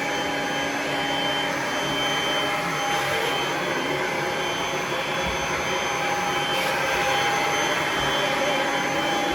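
Kirby vacuum cleaner running steadily while vacuuming stairs: a constant motor whine over an even rush of suction noise.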